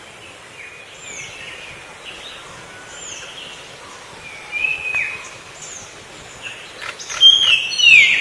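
Black drongo calling: a series of short chirping notes, many falling in pitch, over a steady background hiss, with the calls becoming much louder and quicker near the end.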